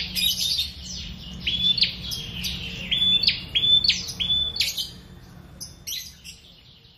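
Prenjak, a small Indonesian warbler, calling in a fast run of sharp repeated notes, each jumping up and then holding level, about two to three a second. The calls grow fainter after about five seconds, with a few last short notes near the end.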